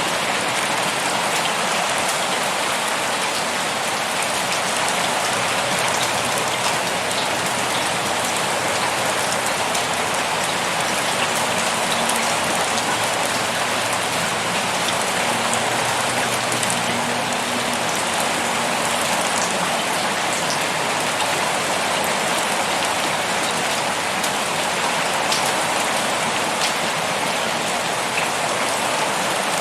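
Heavy rain pouring steadily onto a surface, a dense even hiss speckled with the patter of individual drops.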